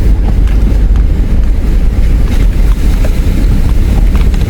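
Four-wheel drive running steadily in four-high along a rough dirt track, a loud low rumble of engine and tyres with a few faint knocks.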